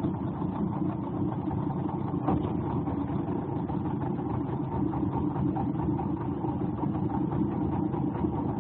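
An engine running steadily at an even pitch and level, without revving.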